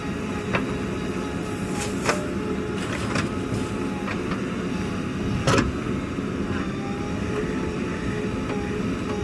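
Heavy diesel machinery running steadily with a high, slightly wavering whine, broken by a series of sharp clanks and knocks. The loudest knock comes about five and a half seconds in.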